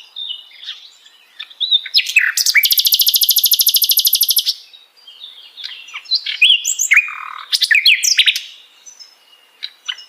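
Sikatan londo flycatcher singing a varied string of high chirps and whistled notes, with a fast, buzzy trill lasting about two seconds starting about two and a half seconds in.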